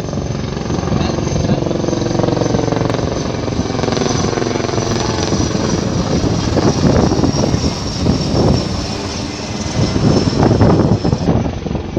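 Helicopter flying, its rotor beating rapidly over a steady high turbine whine.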